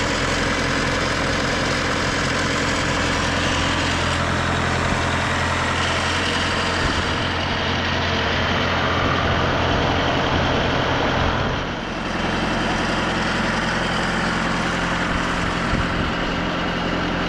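TimberKing 2520 portable sawmill's engine idling steadily, with a brief dip in level about twelve seconds in.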